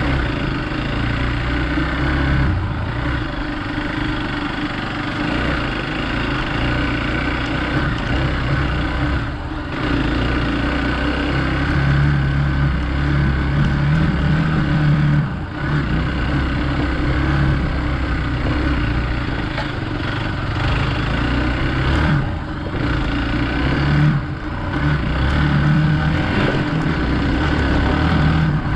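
Hero Xpulse 200 single-cylinder motorcycle engine running under load while riding off-road, its note shifting in pitch and dropping briefly a few times.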